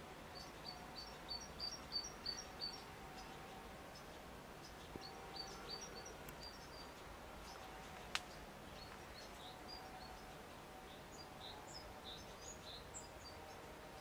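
A small bird chirping in quick runs of short, high notes, in about four bursts. A single sharp click comes about eight seconds in.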